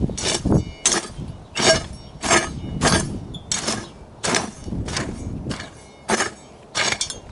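Garden hoe chopping into weedy soil, about eleven strokes at an even pace of roughly one and a half a second: hand weeding with a hoe.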